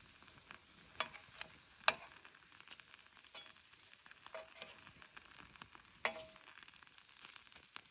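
Wood fire crackling: scattered sharp pops over a faint, steady hiss.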